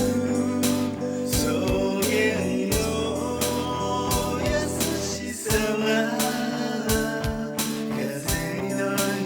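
An original band song: drums keeping a steady beat under guitar and bass, with no lyrics in this stretch. The deep sustained bass drops away about halfway through.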